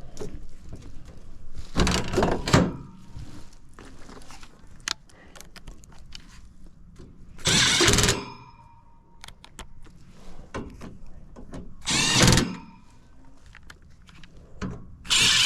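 Power driver running screws in three short bursts of about half a second each, with knocks and clatter from reassembling the heat pump's outdoor unit.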